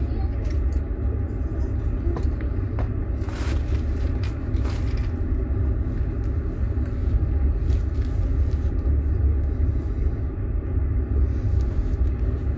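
Passenger train in motion: a steady low rumble of the running gear and carriage, with a few brief knocks about three to five seconds in.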